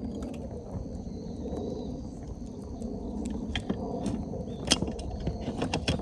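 Wind rumbling on the microphone, with a run of sharp clicks and snaps starting about three and a half seconds in, the loudest near five seconds.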